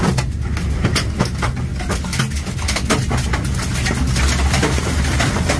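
Tornado winds rumbling and buffeting a vehicle, with many irregular hard hits as flying objects strike its body and windows.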